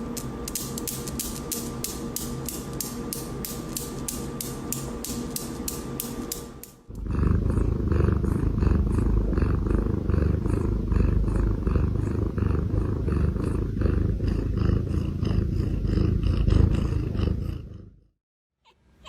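A cat purring loud and close, a deep rapid rumble for about eleven seconds. Before it, after a cut, comes a quieter stretch of evenly spaced ticks over a faint steady hum.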